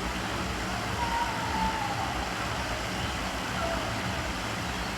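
Steady background hum and hiss at an even level, with a faint falling tone about a second in.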